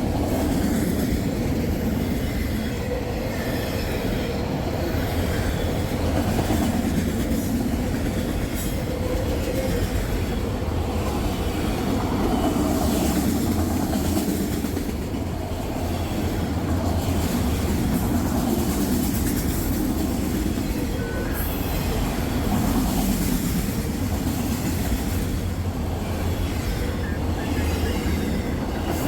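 Freight train rolling past at close range: a steady, continuous rumble of steel wheels on rail, with a faint squeal from the wheels.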